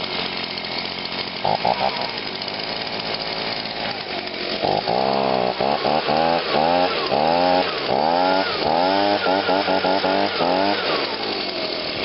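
Stihl BG55 two-stroke handheld leaf blower running just after a cold start: it runs steadily for about four seconds, then is revved in a quick series of about a dozen throttle blips, each rising and falling in pitch, before settling down near the end.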